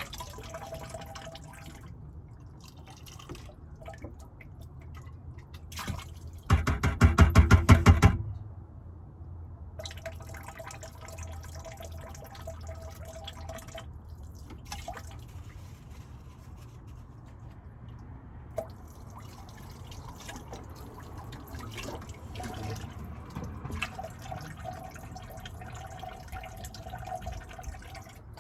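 Water running and dripping in a small sink as dishes are washed. About six seconds in comes the loudest sound, a rapid rattling buzz lasting about a second and a half.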